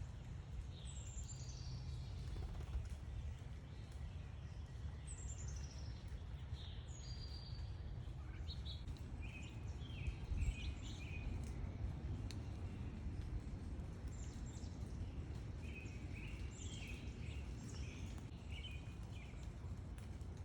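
Backyard songbirds calling: a few quick downslurred chirps, then bursts of short repeated notes, over a steady low background rumble.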